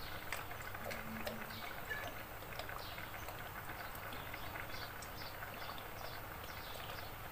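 Small birds chirping over and over: short, high, falling calls a few times a second.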